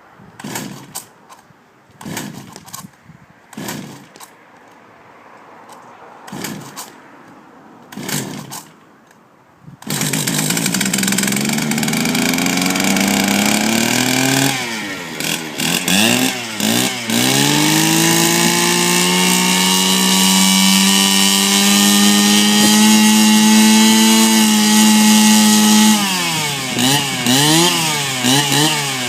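Stihl FS 420 brushcutter's two-stroke engine being cranked with short repeated pulls that don't catch, a unit that hasn't been started for a while. About ten seconds in it fires and keeps running. It is blipped, then revved up and held at high revs, and near the end it is revved rapidly up and down.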